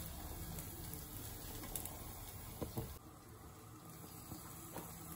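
Chicken liver frying in oil and masala in a covered frying pan: a faint, steady sizzle with a few soft clicks, dipping a little about three seconds in.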